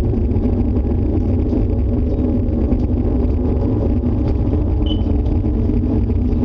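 Loud, steady low rumbling roar from an unseen outdoor source, taken by those hearing it for an approaching tornado.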